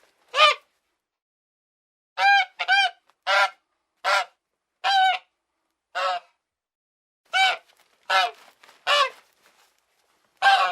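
A bird calling: about eleven short, pitched calls, one after another at uneven gaps.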